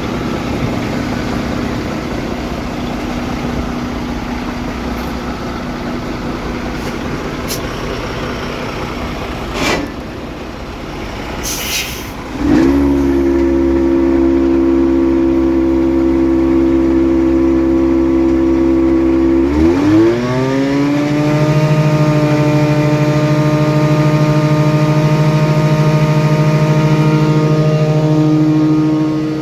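Truck's diesel engine idling, then raised in two steps to a higher steady speed, about 12 seconds in and again about 20 seconds in, driving the PTO-powered blower, which runs blowing dirt out. A couple of sharp clicks and a short hiss come just before the first step up.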